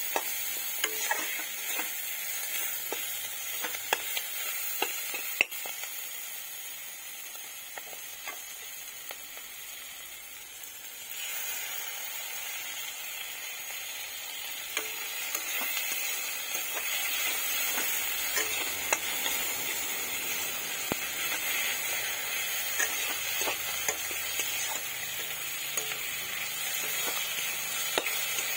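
Chopped onions and green chillies sizzling in hot oil in a kadai, with a spatula scraping and clicking against the pan as they are stirred. The sizzle dips for a few seconds and then grows louder about a third of the way in.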